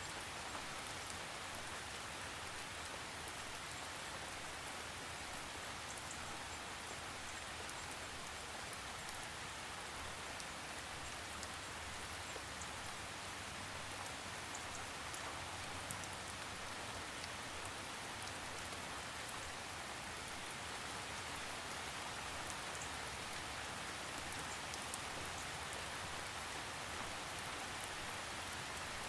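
Steady rain falling, with fine drop ticks over an even hiss and no thunder.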